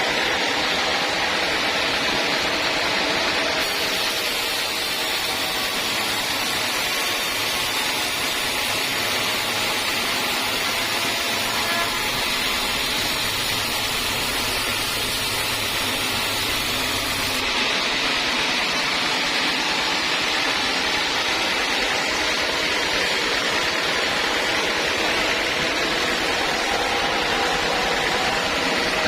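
Sawmill saw running steadily through teak wood, an even noise with no breaks.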